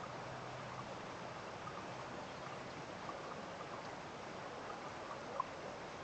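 Steady rush of flowing stream water, with small scattered plinks and one short, sharper plink near the end.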